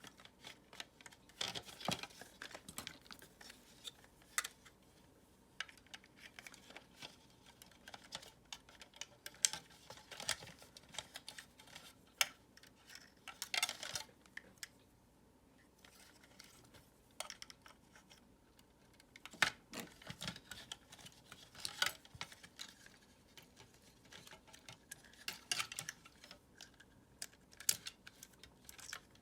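Irregular light clicks, taps and clacks of hard plastic vacuum-cleaner parts and tools being handled and worked apart, with a few louder knocks now and then.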